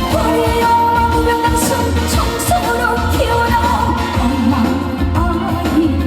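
A woman singing a trot song live, her held and bending melody carried over a band backing with a pulsing bass.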